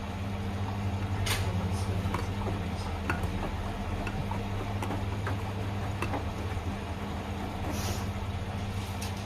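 Front-loading washing machines running a delicates wash cycle: a steady low motor hum with scattered light clicks.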